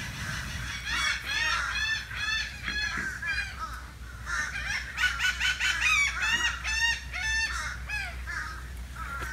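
Birds calling in quick runs of repeated calls, about four a second, in two bouts with a short lull in the middle.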